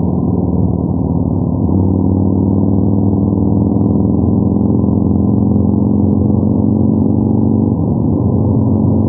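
Yamaha MT-01's 1670 cc air-cooled 48-degree V-twin running at a steady cruise, heard from on board through its exhaust. The engine note shifts slightly about two seconds in and again near the end.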